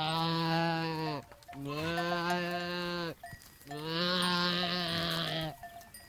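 A sheep bleating: three long, steady-pitched baas with short pauses between them. Faint bell tinkles follow near the end.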